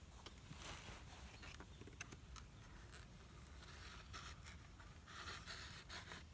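Faint rustling and scattered light clicks, like camp gear being handled, with a soft patch of rustling near the end.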